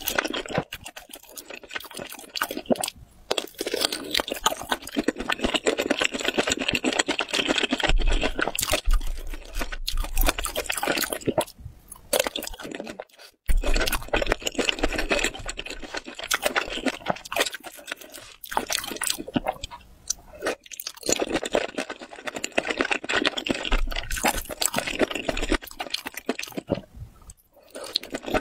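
Close-miked chewing and mouth sounds of someone eating saucy spicy stew: a dense run of small clicks broken by a few short pauses.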